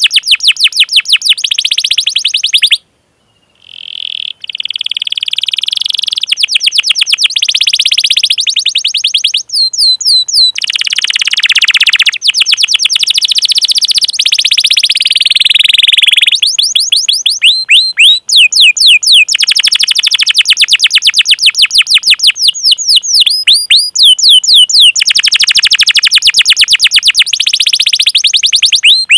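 Domestic canary singing a long, loud song of fast repeated high chirps and rolling trills, with a brief pause about three seconds in.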